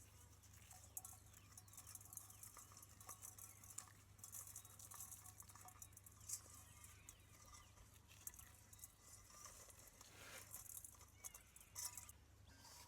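Near silence: faint outdoor garden ambience, a soft high hiss with scattered small clicks and faint distant bird chirps.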